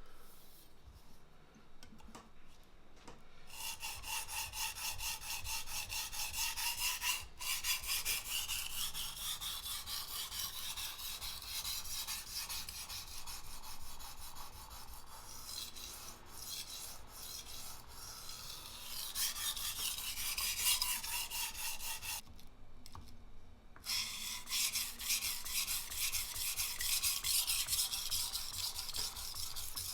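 Steel knife blade being drawn back and forth over a water-wetted whetstone, a continuous gritty scraping stroke after stroke. It is quieter for the first few seconds, then the strokes run on, stopping for about a second and a half roughly three-quarters of the way through.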